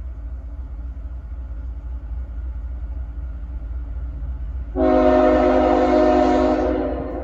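Diesel locomotive's air horn sounding one steady chord of several notes for about two and a half seconds, starting about two-thirds of the way in. Before it, a steady low rumble of the approaching train.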